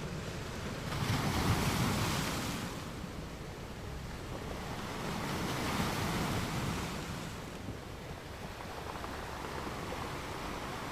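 Ocean surf: waves washing in, with two surges of rushing water noise that swell and fall back, the first about a second in and the second around the middle.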